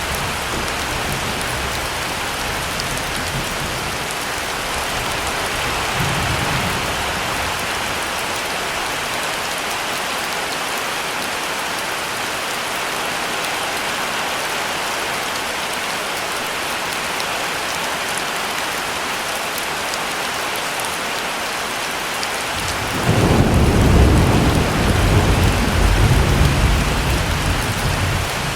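Steady heavy rain. Thunder rumbles faintly about six seconds in, then a loud rolling rumble of thunder comes near the end and lasts about five seconds.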